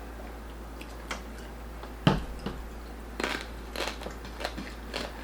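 Close-up biting and chewing of crispy lechon belly: a run of short, crisp crunches, the loudest about two seconds in.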